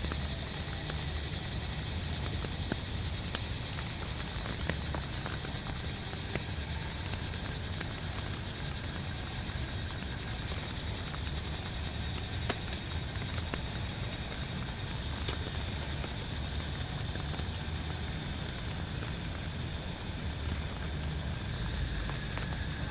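Steady rain with scattered ticks of single drops. A steady high hiss stops abruptly near the end.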